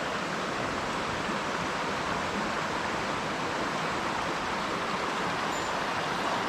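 Small mountain stream rushing steadily.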